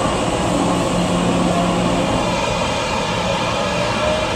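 E001-series Train Suite Shiki-shima train at the platform, giving a steady mechanical drone with a low hum held briefly near the start.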